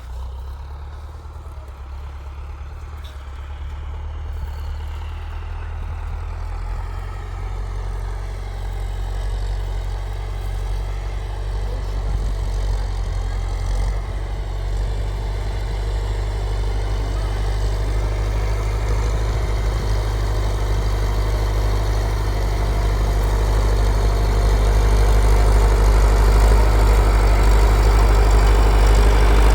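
Tractor engine running with a steady low drone, growing gradually louder throughout.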